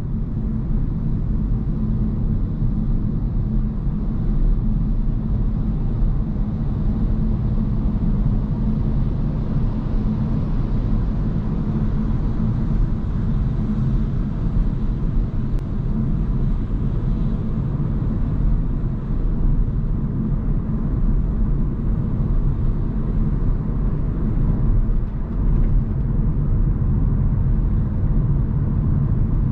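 Steady low road and tyre rumble of a Hyundai Kona Hybrid driving at a constant pace, with no engine revving or sudden events.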